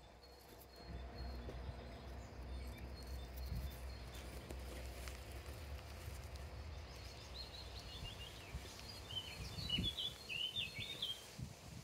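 Quiet outdoor ambience with a steady low rumble, and a small songbird singing a quick run of high chirps in the second half.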